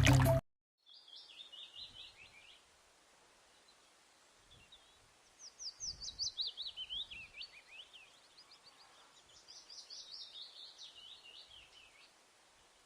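A small songbird singing three phrases of rapid high notes, each a quick trill that slides downward in pitch.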